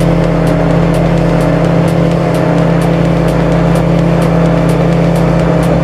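Speed boat engine running steadily at speed, with a regular high tick about twice a second over it.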